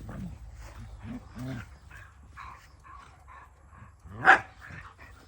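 Dogs playing together: short low vocal sounds and small yips, with one sharp, loud bark about four seconds in.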